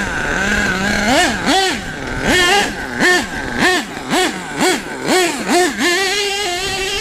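HPI Savage SS nitro RC truck's small glow engine idling, then revved up and down in about ten quick blips, then held at a steady higher pitch near the end. Its nitro tank is cracked, so the engine isn't getting full fuel pressure and runs unevenly.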